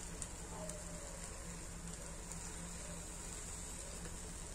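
Egg omelette frying in oil in a pan, a faint steady sizzling hiss with a few faint ticks early on, over a low steady hum.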